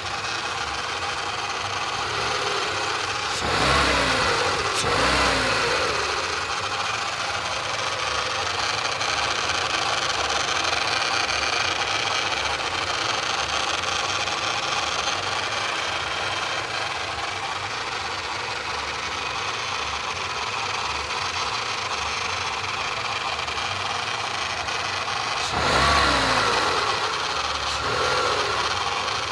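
2009 Renault Clio engine idling, revved up and back down twice, once a few seconds in and once near the end. A strange noise is in it that the owner cannot identify; he first suspected low power-steering fluid, but the noise persists.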